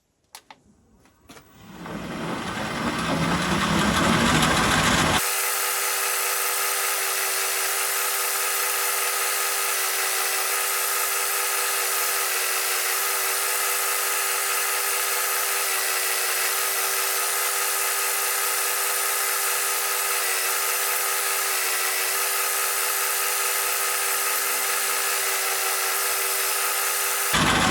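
Logan 210 metal lathe running under power, spinning up with a rising whine about two seconds in. A few seconds later the sound changes abruptly to a steady high whine with hiss that holds almost to the end.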